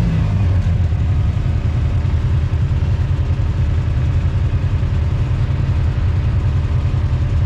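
Off-road vehicle engine running at a steady, even speed while riding along a trail, a low drone with no revving.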